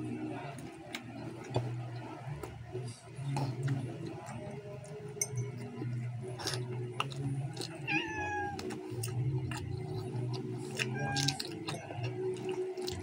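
Close-up eating sounds of squid adobo being chewed with the mouth open: wet smacking and clicking bites over a steady low hum. Twice, about two-thirds of the way in and again near the end, a short cry falls in pitch.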